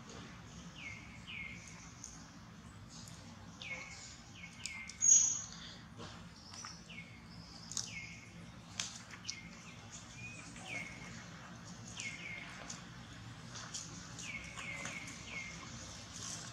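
A small bird calling outdoors: short falling chirps, often in quick twos and threes, repeated throughout. There is a brief sharp high squeak about five seconds in, the loudest moment.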